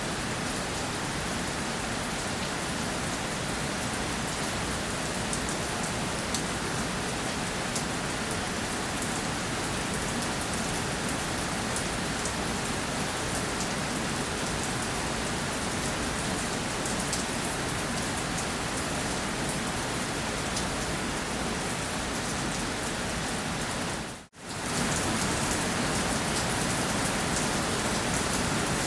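Steady rainfall: a dense, even hiss with many small drop ticks. About 24 seconds in it cuts out for a split second, then carries on as before.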